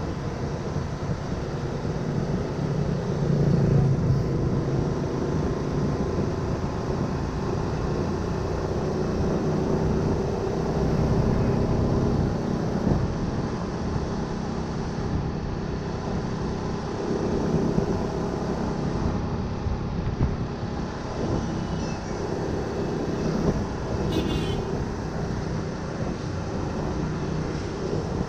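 Honda Winner 150 motorcycle's single-cylinder engine running while riding, mixed with wind and road noise; the engine note rises and falls a little with speed.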